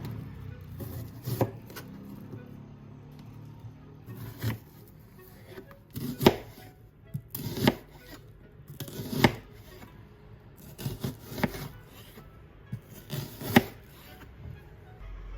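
Kitchen knife slicing through an onion and striking the cutting board, about nine separate cuts at uneven intervals, some in quick pairs.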